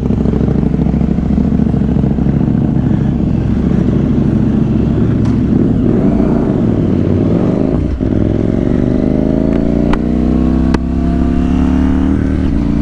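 KTM 790 Duke's parallel-twin engine and decatted exhaust with a Remus end can, running steadily on the move. About eight seconds in there is a brief dip, then the bike accelerates with the engine note rising. Two sharp cracks come near the end.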